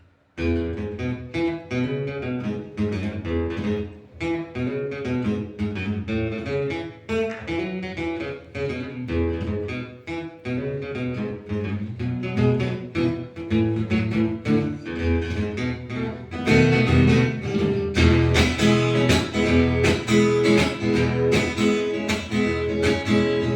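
Guitar playing the instrumental introduction of a song, a continuous run of plucked notes and chords. It gets louder about two-thirds of the way through, just before the singing comes in.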